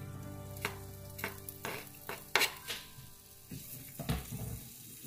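Julienned ginger sizzling in hot cooking oil in a nonstick frying pan, stirred with a wooden spatula that scrapes and taps against the pan at irregular intervals.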